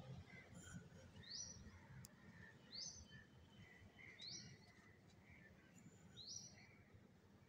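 Faint bird calls: a short, sharp, high note that rises and drops, repeated four times about every one and a half to two seconds, with softer chirps in between.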